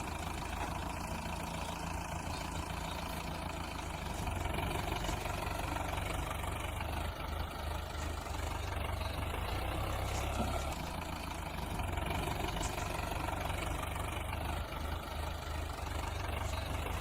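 Tractor engine sound running steadily at a low, even idle-like beat, starting and stopping abruptly.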